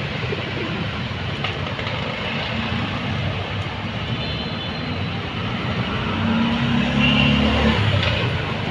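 Steady motor vehicle noise with a low engine hum that grows louder about six seconds in.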